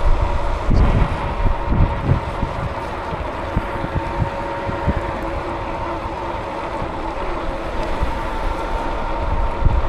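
Wind buffeting the microphone on a moving bicycle, gusting hardest about a second in and near the end, over a steady high whine.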